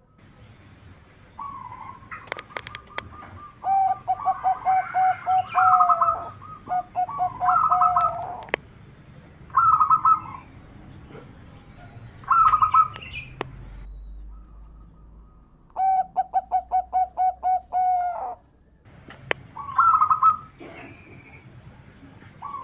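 Zebra dove (perkutut) singing: repeated phrases of quick staccato coo notes with short pauses between them, some phrases a low stuttering run and others shorter, higher notes. A few sharp clicks fall between the phrases.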